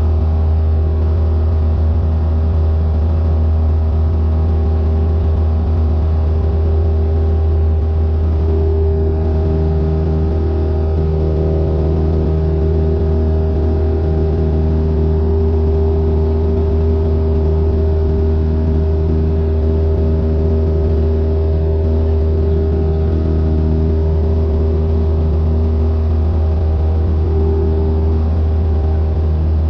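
Cessna 172N's four-cylinder Lycoming engine and propeller running steadily, a loud low drone with a constant hum, heard from inside the cockpit.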